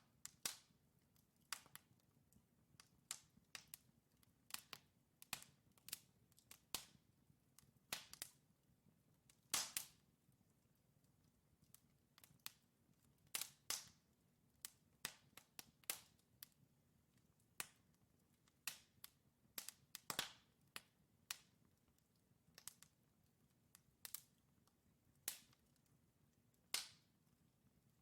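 Wood logs burning in a fireplace, crackling with sharp irregular pops and snaps, one or two every second, over a faint low rumble of the flames.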